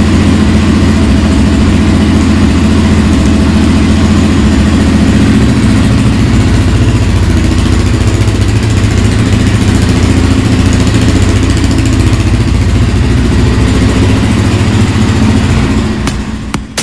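Motorcycle engine running loud and steady, fading out near the end.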